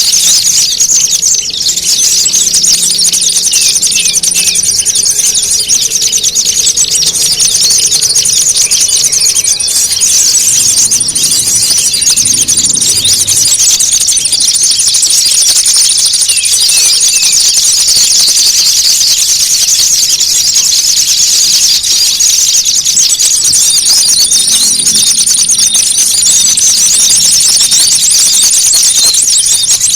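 Bird-lure recording of many small songbirds calling at once in a noisy, agitated mix, as if quarrelling. It is a dense, rapid, high-pitched chattering without pause. A thin, steady high whine comes and goes above it.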